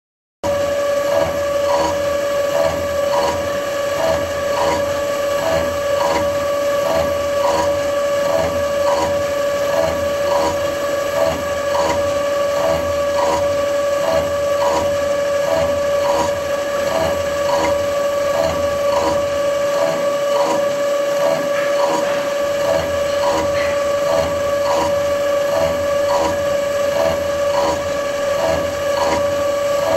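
CNC twin-spindle gear pointing machine running: a steady whine with a regular pulse repeating about every two-thirds of a second. It starts suddenly just after the beginning.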